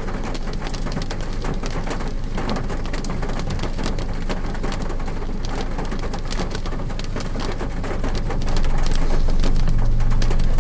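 Rain drumming on a car's roof and windows, heard from inside the cabin: a dense patter of many separate drops over a low rumble. Near the end it grows louder and a steady low hum joins in.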